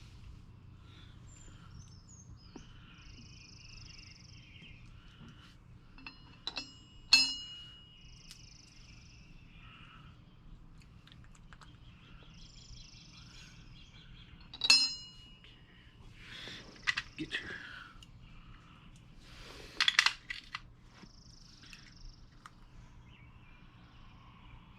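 Metal hardware clinking: two sharp clinks, about seven and fifteen seconds in, each with a brief ring, then a few seconds of parts being handled and rattled, as bolts and nuts are fitted to a mini bike's sprocket. Birds chirp in the background.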